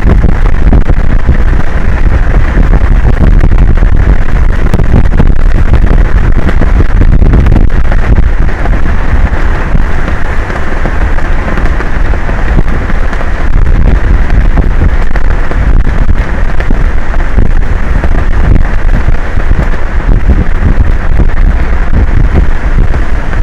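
Strong wind buffeting an outdoor microphone: a loud, steady, distorted rumble with a rushing hiss above it.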